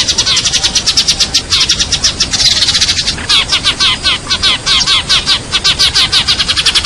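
Sparrows chirping in a rapid, unbroken run of short calls, about five or six a second, as in a recorded sparrow lure call.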